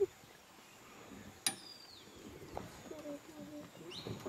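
Faint outdoor forest ambience with birds calling: a few short, high, down-slurred whistles, with a sharp click about a second and a half in.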